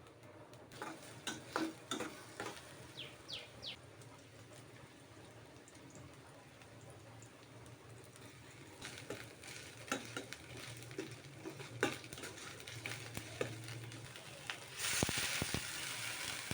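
Food frying in a pan, with utensils clicking and knocking against it. The hiss grows louder, with a sudden loud burst near the end.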